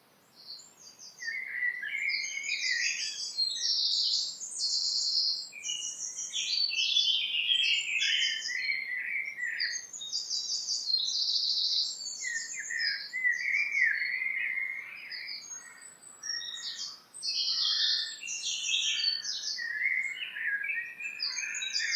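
Songbirds singing: fast, high repeated chirps and trills over lower warbling phrases, with a short lull about sixteen seconds in.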